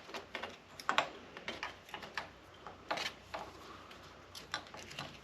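Scattered light clicks and taps of small engine parts and tools being handled on a workbench, irregular and sharp, the strongest about a second in and about three seconds in.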